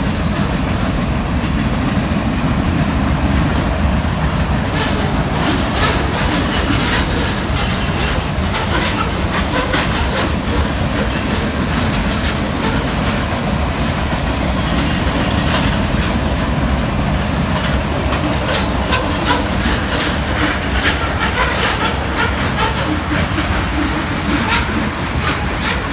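Freight train cars (boxcars, tank cars and covered hoppers) rolling past on the track: a loud, steady rumble of steel wheels on rail, with frequent sharp clacks as the wheels cross rail joints.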